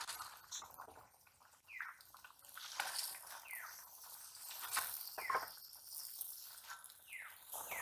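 A bird calling four times, one short falling note about every two seconds.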